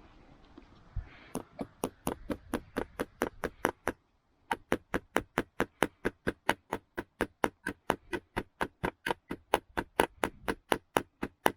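Hammer driving a nail into wood: quick, even blows about four a second, starting about a second in, with a brief pause near the middle.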